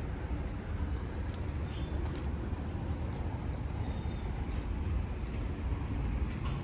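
Steady low rumble of city street ambience, like nearby vehicle traffic, with a few faint short high chirps and ticks over it.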